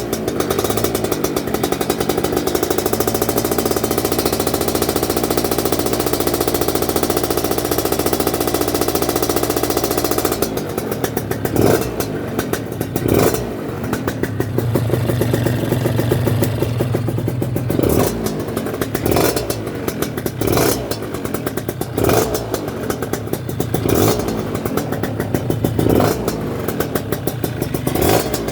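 Gilera Runner scooter's two-stroke engine with a Malossi 172 big-bore kit and a new exhaust, held at high revs for about ten seconds, then dropping to idle with a series of quick throttle blips every one to two seconds.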